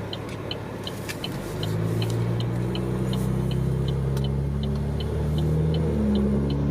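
Car engine heard from inside the cabin, speeding up from a low hum about a second and a half in as the car pulls away, with a light ticking about three times a second over it.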